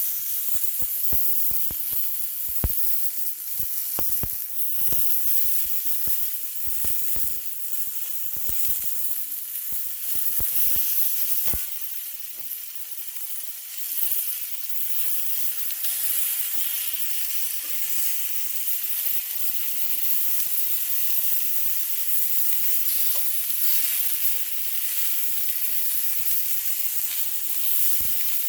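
Beef sizzling on a Korean barbecue grill, a steady hiss of frying fat, with many sharp clicks and pops through roughly the first twelve seconds.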